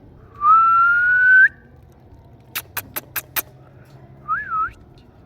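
Indian ringneck parrot whistling: one long, slowly rising whistle, then five sharp clicks in quick succession, then a short wavering whistle.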